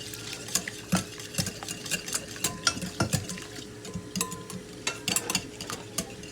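A utensil quickly beating egg, salt and garlic powder together in a large mixing bowl, with quick irregular clicks and scrapes against the bowl.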